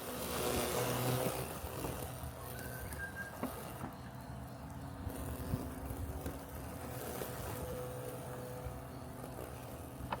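Robotic lawn mower running with a steady mechanical hum, a little louder in the first second or so, with a few faint clicks.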